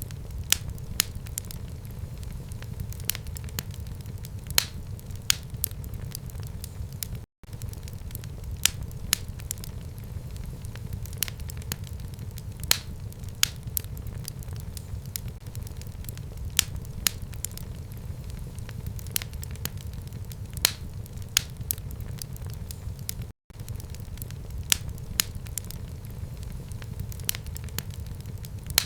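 Fire burning in a home fireplace: a steady low rumble of flame with frequent sharp, irregular crackles and pops. Twice the sound cuts out for an instant.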